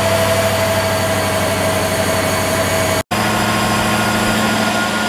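Supercharged Corvette V8 running steadily at an even pitch, with no revving. The sound cuts out for an instant about three seconds in.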